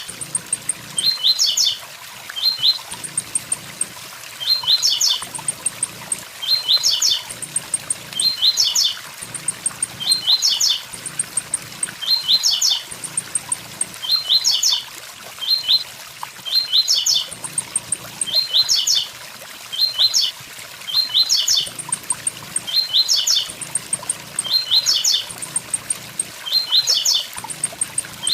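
Blue-black grassquit (tiziu) singing its 'tui tui zel zel' song, the same short phrase of quick chirps repeated about every two seconds, over the steady rush of a waterfall.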